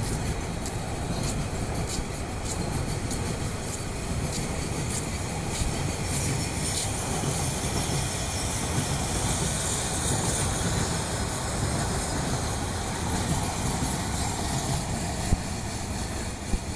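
A moving train: a steady rumble and rattle, with a run of sharp wheel clicks over rail joints in the first several seconds and a couple of brief knocks near the end.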